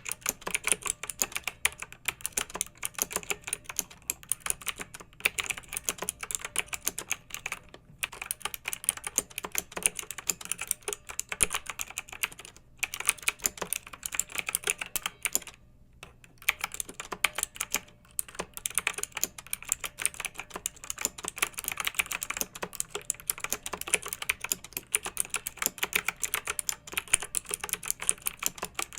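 Fast, continuous typing on a clicky mechanical keyboard, with brief pauses about a third of the way in and a longer pause a little past the middle.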